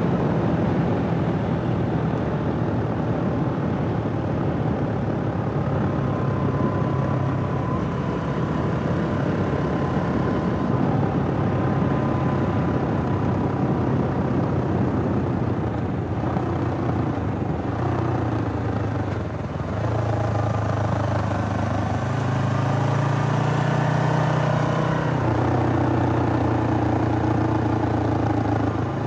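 Suzuki GS500E's air-cooled parallel-twin engine running, its note shifting up and down in pitch. It drops back briefly about two-thirds of the way through, then comes back stronger and steadier.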